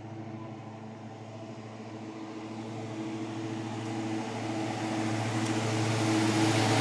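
Diesel semi truck engine running at a steady low pitch, growing steadily louder as the truck approaches.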